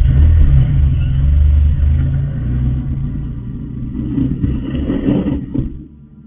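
Car engine running and revving, a loud low rumble that stops abruptly just before six seconds in.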